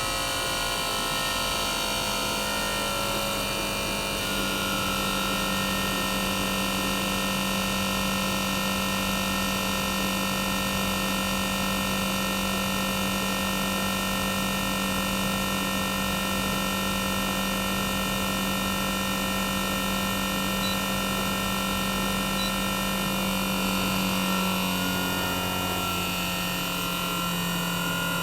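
Toshiba twin rotary inverter compressor (DA91A1F-42F) in a 1998 RAS-285LADR mini-split outdoor unit, running without its sound-insulating wrap. It gives a steady whine of several tones over a motor hum, and its pitch steps down slightly near the end as the inverter changes speed.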